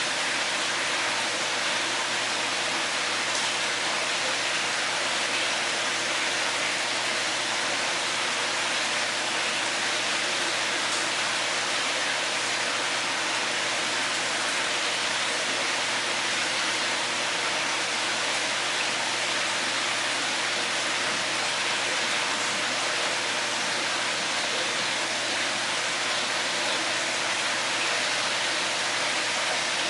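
Steady, even rush of running water, a dense hiss with a faint low hum beneath it.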